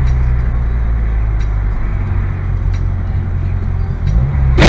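Steady low drone of a moving vehicle's engine and road noise heard from inside, then a sudden loud crash right at the end.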